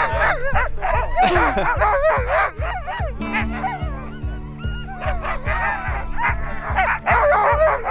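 A pack of sled huskies yelping and howling in many overlapping, rising and falling cries, over background music with a steady beat and held chords that come in about three seconds in.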